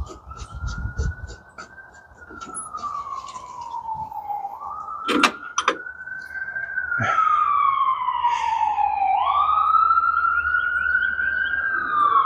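Emergency vehicle siren in a slow wail, rising and falling in pitch about three times and growing louder partway through as it comes closer. A few sharp tool clicks sound in the first half.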